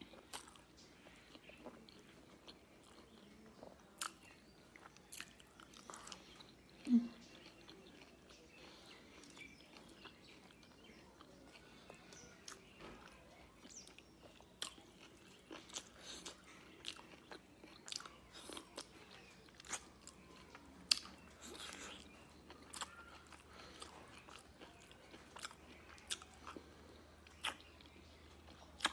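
Close-miked chewing and biting of rice and curry, with scattered wet mouth clicks and smacks. The loudest smack comes about seven seconds in.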